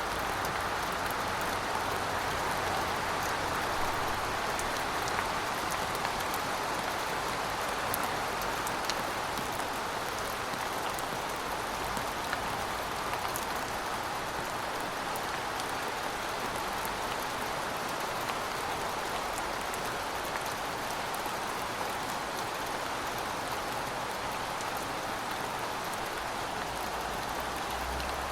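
Steady rainfall: a dense, even hiss of rain with scattered individual drops ticking.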